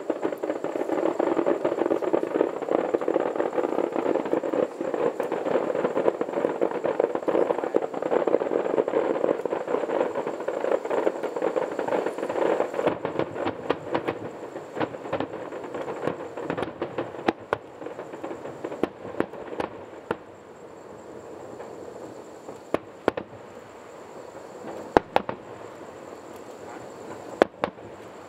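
Aerial fireworks going off: a dense, continuous crackling and popping of many shells, thinning about halfway through into scattered separate bangs, the loudest about three quarters of the way in.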